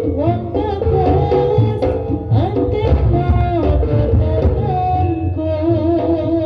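Live jaranan (kuda lumping) ensemble music: hand drums beat a busy, steady rhythm under a wavering, gliding melody.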